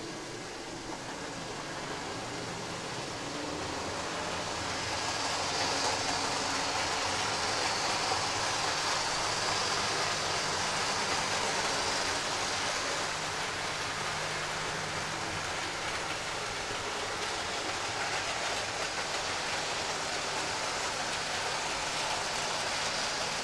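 Model diesel locomotive running on the layout's track: the whirr of an older model's motor and the rattle of its wheels on the rails. It gets louder over the first five or six seconds, then runs on steadily.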